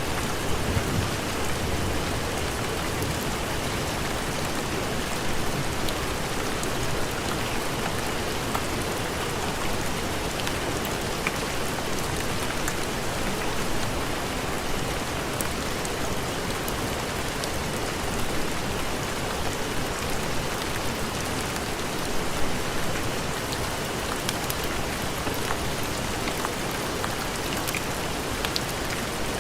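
Steady heavy rain, an even hiss, with scattered small ticks throughout.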